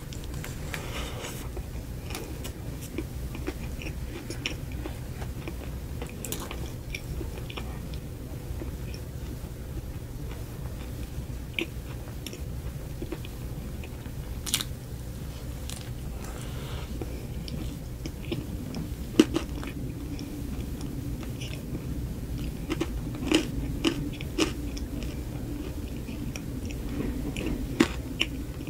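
Close-miked biting and chewing of a frosted mini cupcake topped with crunchy cereal rings, with scattered crisp crunches and wet mouth clicks over a steady low hum.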